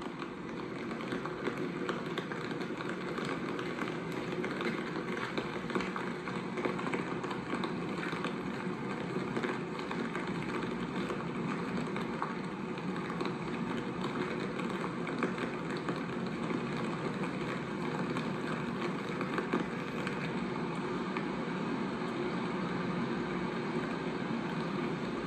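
Steady running noise of a moving vehicle, with faint scattered clicks and rattles.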